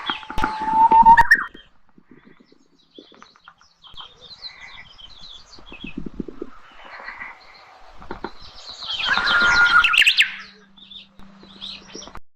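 Birds chirping and calling: scattered short high chirps throughout, with two louder, denser bursts of calls, one at the start and one about nine seconds in.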